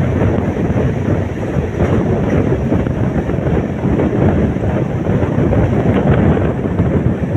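Wind rushing over the microphone from the window of an express train running at speed, over the steady rumble of the coach's wheels on the rails.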